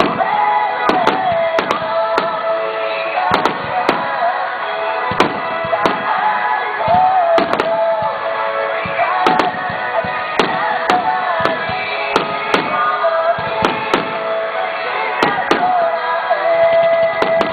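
Aerial fireworks bursting in a rapid, irregular string of sharp bangs, about one or two a second, over music played over loudspeakers with a held, wavering melody.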